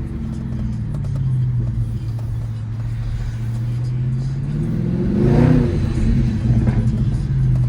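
Dodge Charger 392 Scat Pack's 6.4-litre HEMI V8 idling through a loud exhaust. About five seconds in it is revved once, the pitch rising and dropping back to idle, with a smaller blip shortly after.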